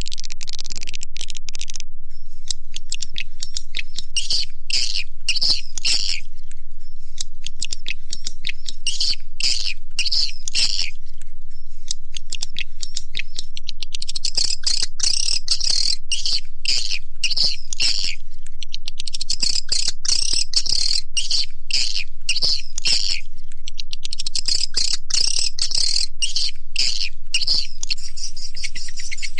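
Swiftlet call recording: a dense, unbroken chorus of high twittering chirps and rapid clicks from swiftlets. It is a lure call, the kind played in swiftlet houses to draw the birds in to roost and nest.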